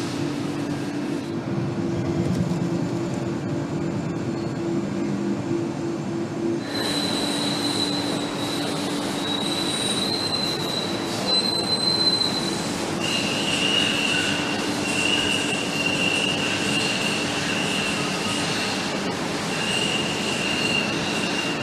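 Steady mechanical rumble with a low hum. About seven seconds in, a high steady squeal joins it; around thirteen seconds the squeal shifts lower and keeps cutting out and back in.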